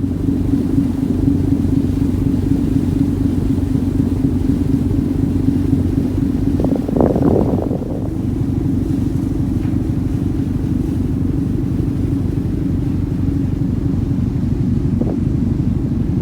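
Ferry engine running underway: a steady, loud low rumble with a constant hum, and a brief louder surge about seven seconds in.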